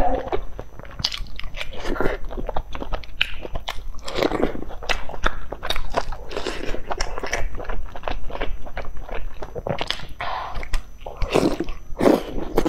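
A person chewing and biting food from a spicy broth hot pot, with many irregular short mouth clicks and smacks.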